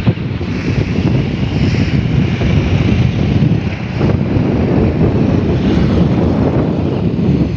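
Strong wind buffeting the microphone: a loud, rough rumble that rises and falls.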